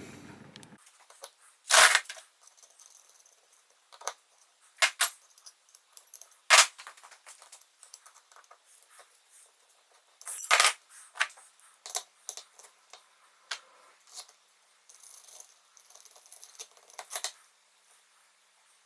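Metal clinks and knocks of motorcycle wheel hub parts and tools being handled while the hubs are taken apart, with three sharper knocks about two, six and a half and ten and a half seconds in, and lighter clicks between.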